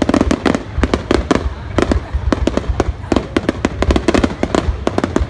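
Fireworks display in a rapid, continuous barrage of bangs, several a second.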